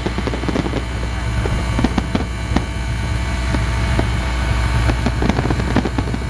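Fireworks going off: many short sharp pops and crackles, irregular and overlapping, over a steady low rumble.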